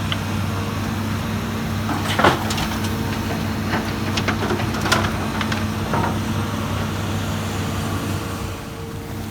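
Heavy diesel machinery running steadily with a low hum, with several sharp knocks and clatters about two, four to five, and six seconds in, typical of soil and stones striking a dump truck's steel bed during loading.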